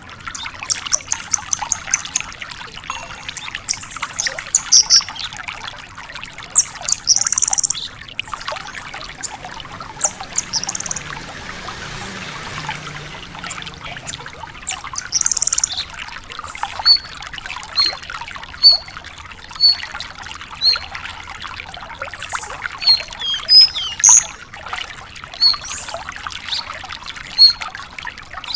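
Branjangan (Horsfield's bush lark) singing a varied song of high chirps and trills, with a run of short, clipped high notes about once a second in the second half, over a steady trickling hiss.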